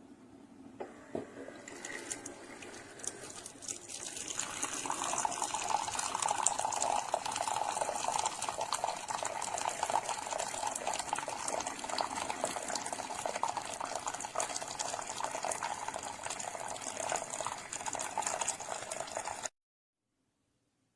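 Keurig K-Classic single-serve brewer running a brew: liquid streaming and spluttering into a cup. It builds over the first few seconds, runs steady, then cuts off abruptly near the end.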